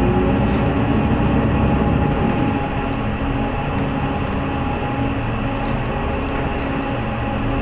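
City bus engine and drivetrain heard from inside the passenger cabin while driving: a steady rumble with a humming engine tone that shifts in pitch about two seconds in, then runs a little quieter.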